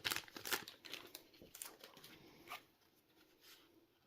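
Yu-Gi-Oh! trading cards and their foil pack wrapper being handled: soft rustling and crinkling with small clicks over the first second and a half, one more click about two and a half seconds in, then it goes nearly quiet.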